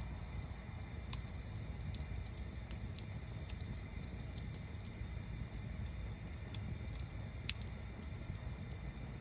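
Log bonfire stacked as a tower, burning with a steady low rumble and scattered sharp crackles and pops, the loudest pop about seven and a half seconds in.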